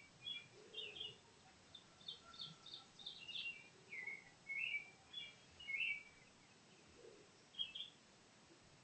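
Songbirds chirping: a quick run of short, high chirps, some sliding in pitch, then one last call near the end, all fairly faint.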